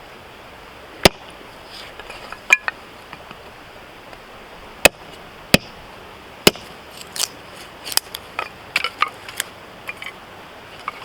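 Husqvarna hatchet striking firewood: five sharp, separate blows spaced irregularly through the first seven seconds, then a cluster of lighter clicks and knocks as wood is split and handled.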